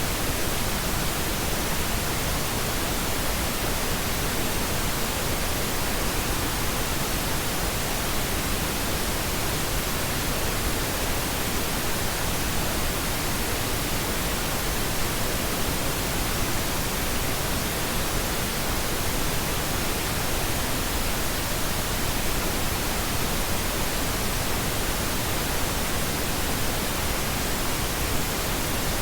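Steady, unbroken pink noise: an even hiss spread across all pitches, with no change in level.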